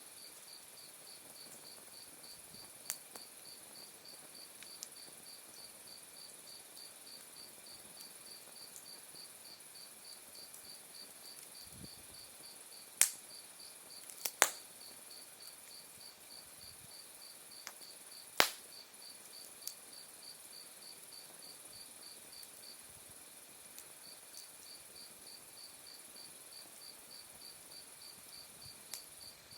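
Autumn night insects chirping: a steady pulsed chirp at about four a second over a constant high trill. A few sharp pops and crackles from the burning firewood break in, the loudest three near the middle.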